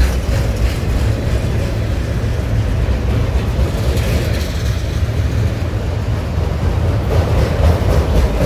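Loaded freight cars (autoracks) rolling past close by: a loud, steady rumble of steel wheels on the rails.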